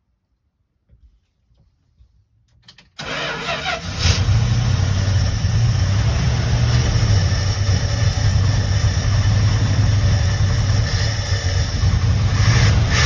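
1975 Winnebago Brave's engine starting about three seconds in after a moment of cranking, then catching and running steadily. It is a cold start after long sitting, fed from a gas can instead of its disconnected tank.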